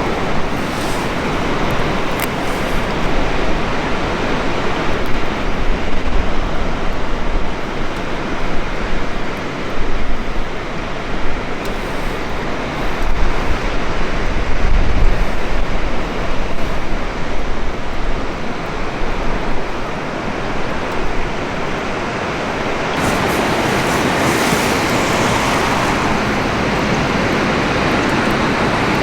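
Gusty outdoor noise, most likely wind on the microphone, with a rumble that comes and goes. About three quarters of the way through it turns into a brighter, steadier hiss.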